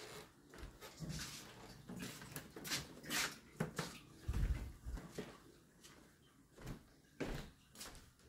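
Irregular knocks, taps and rustling handling noises, with a heavier low thump about four and a half seconds in.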